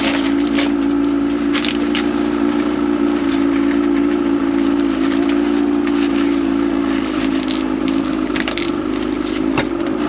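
Polaris RMK two-stroke snowmobile engine running at a steady idle after being pull-started, a constant droning hum with a few sharp clicks over it.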